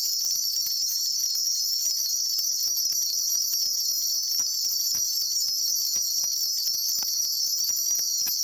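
Steady, high-pitched cricket-like chirping that holds at one level throughout, with faint scattered ticks underneath.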